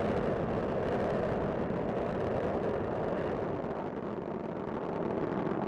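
Space Shuttle Discovery's solid rocket boosters and main engines firing during ascent: a steady rumbling noise that dips slightly about four seconds in.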